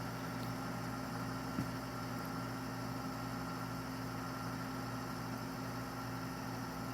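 Steady electrical hum of a toaster oven's convection fan motor running during the solder-paste soak, with its heating element switched off. There is one faint tick about one and a half seconds in.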